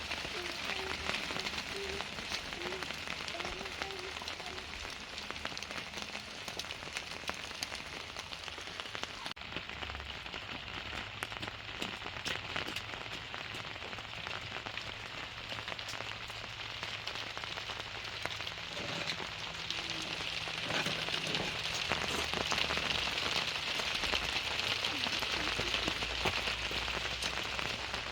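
Steady rain falling, with many small drops ticking on surfaces; it grows a little heavier in the second half.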